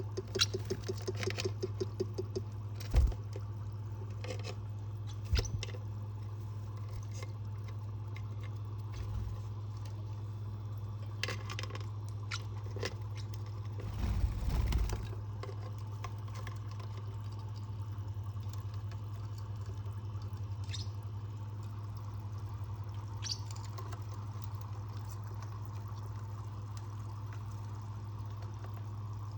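A steady low hum with scattered small taps, clicks and scratches. There is a quick run of pulses at the start, a couple of sharp knocks in the first six seconds, and a louder rumbling scuffle about halfway through.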